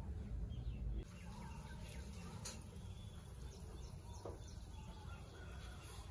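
Small birds chirping in short, quick calls over a low, steady background rumble, with one sharp tick about two and a half seconds in.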